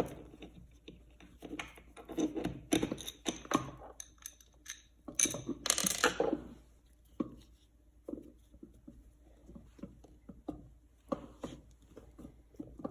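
Face-plate screws being driven into a floor outlet box: small metal clicks and clinks with spells of scraping, loudest in two stretches in the first half, then scattered ticks.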